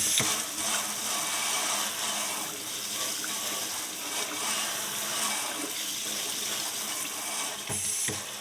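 Water running steadily from a tap, rinsing a just-cleaned horseshoe held under the stream.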